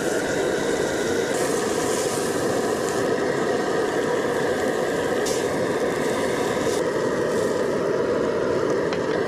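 Gas camp stove burner running steadily at full flame under cooking food.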